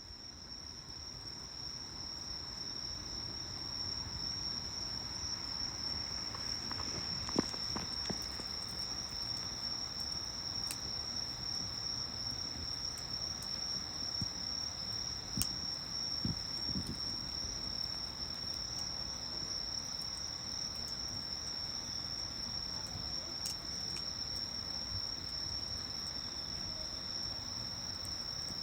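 Insects trilling in one steady, unbroken high tone, with a few soft pops and crackles from a small wood fire.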